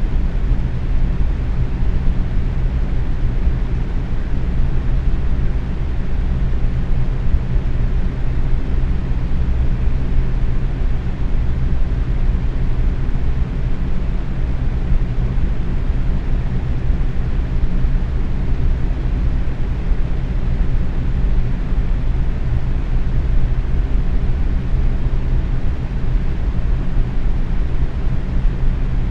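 Box fan running steadily at medium speed: an even whoosh of moving air with a low hum underneath.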